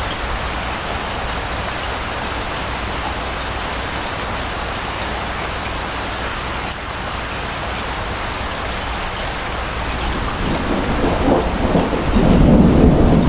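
Steady rain falling, with a low rumble of thunder building about ten seconds in and growing louder near the end.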